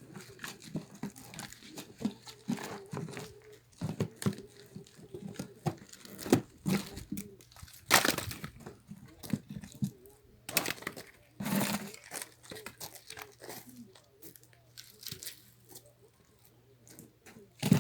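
Firewood being split with an axe: a few heavy blows, about halfway, again a few seconds later and once near the end, with irregular cracking and crunching of wood between them, over a steady low hum.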